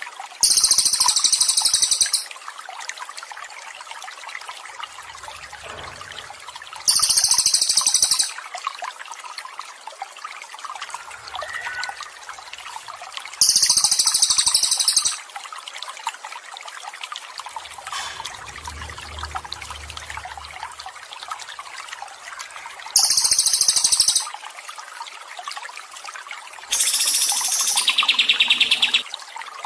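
Water trickles steadily under a bird's high-pitched song, which comes in five bouts of about one and a half to two seconds each. The last bout is a little longer and reaches lower in pitch.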